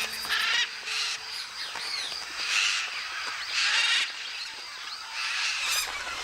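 A flock of macaws and other parrots giving harsh squawks. Several loud calls come a second or so apart, with fainter calls between.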